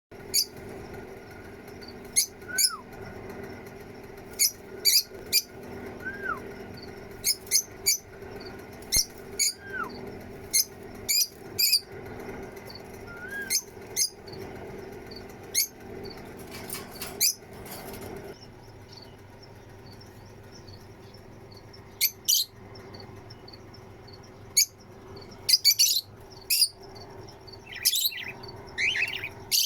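Small pet parrots (cockatiels, budgies and lovebirds) chirping: sharp high chirps every second or so, a few short falling whistles in the first ten seconds, and a burst of warbling chirps near the end. A steady low hum runs underneath and stops a little past halfway.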